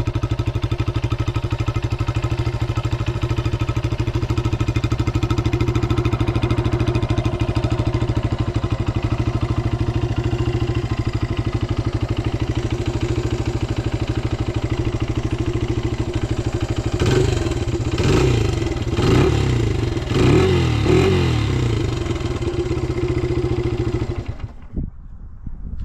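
1980 Honda XR80's single-cylinder four-stroke engine idling steadily, then revved in four short blips and settling back to idle, before it is switched off near the end.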